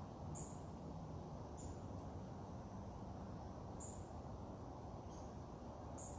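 A small bird giving short, high chip calls, about five of them spaced a second or two apart, over a low steady background rumble.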